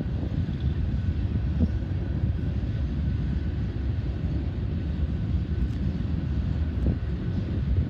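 Steady low rumble of a freight train in the distance, mixed with wind on the microphone, with a faint steady tone above it.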